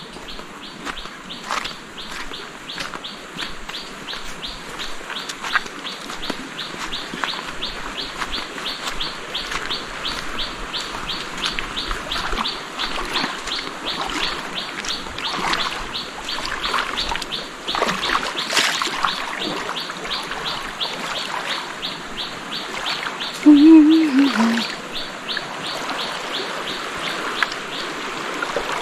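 Outdoor chirping, with one call repeated evenly about four times a second and other scattered chirps over it. About 24 seconds in there is a brief low wavering sound, the loudest moment.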